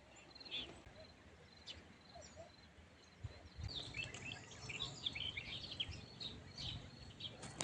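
Faint chirping and twittering of small birds, growing busier about halfway through, over a low rumble that starts around three seconds in.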